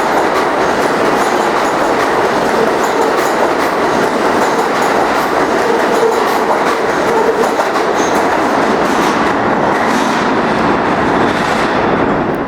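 Subway train running on the rails, a steady loud rumble with wheels clacking over rail joints; the upper hiss thins out over the last couple of seconds.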